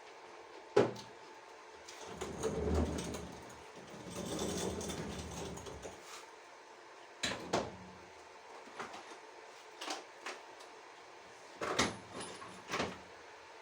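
Handling noises from working on a tumble dryer: a sharp knock about a second in, a few seconds of scraping and rustling, then several clicks and knocks.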